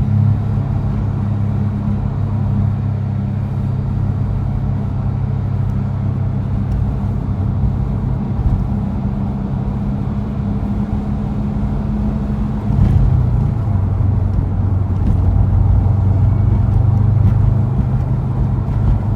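2012 Subaru Impreza WRX STI's turbocharged flat-four running through a Magnaflow exhaust, holding steady revs. About two-thirds of the way through the pitch shifts and it gets louder.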